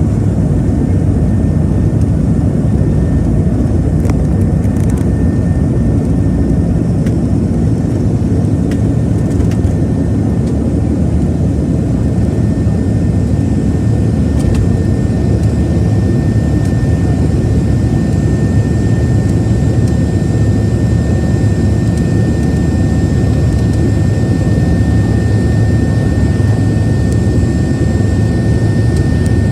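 Boeing 737-700's CFM56-7B jet engines running steadily: a constant low rush with a thin, steady whine above it that grows a little stronger in the second half.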